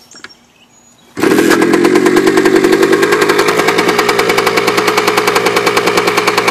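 Kawasaki KE100's single-cylinder two-stroke engine cold-starting on a little choke: it catches suddenly about a second in and at once settles into a steady, even run.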